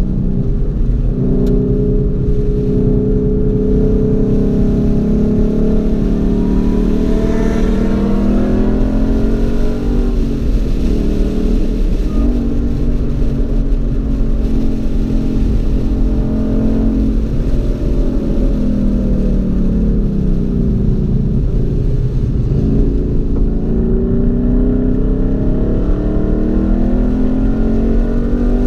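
Car engine heard from inside the cabin while lapping a race track: its pitch climbs and falls over and over, with several sudden drops, over a constant low rumble of road and wind noise.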